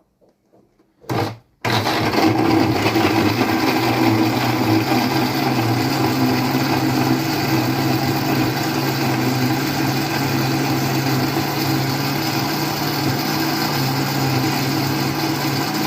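Kitchen blender with a new replacement jar, briefly pulsed about a second in, then running steadily at full speed blending cut guava with sugar.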